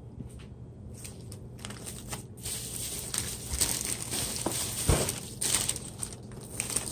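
Packaging crinkling and rustling as a delivery box is unpacked by hand, getting busier about two and a half seconds in, with a single thump about five seconds in.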